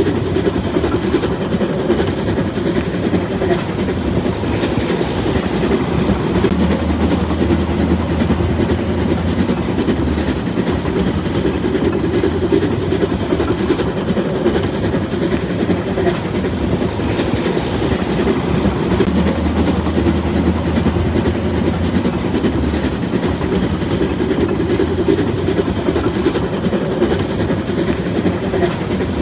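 Train running on rails with a steady clickety-clack of wheels over the rail joints. A low hum swells in twice, about twelve seconds apart.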